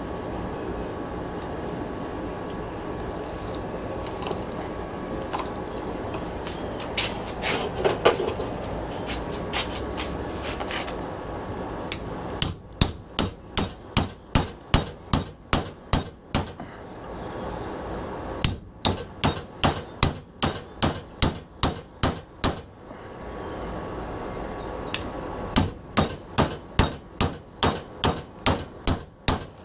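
Hammer striking a metal punch against a ceiling fan motor clamped in a vise, to drive the motor apart. A few light knocks and handling sounds come first, then three runs of quick, ringing metal blows, about two and a half a second.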